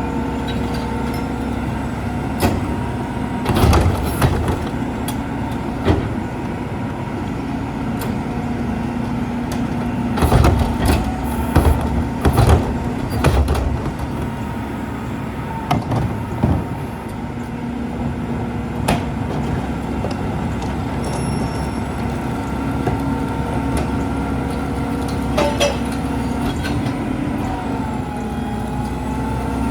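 Mack LEU rear-loader garbage truck running with a steady drone and a held higher tone, broken by many sharp metallic clanks and bangs. The drone shifts in pitch near the end.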